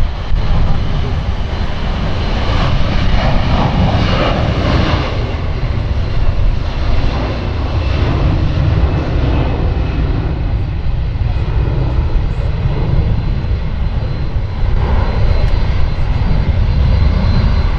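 Jet airliner's engines at high thrust: a loud, steady low rumble with a louder passage about three to five seconds in.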